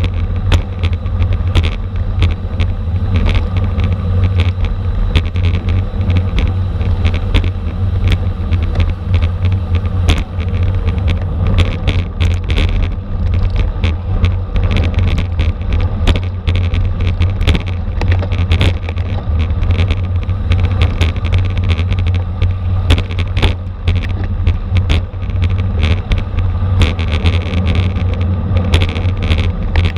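Wind noise on a bicycle-mounted camera's microphone at racing speed: a steady low rumble, with frequent sharp clicks and rattles throughout.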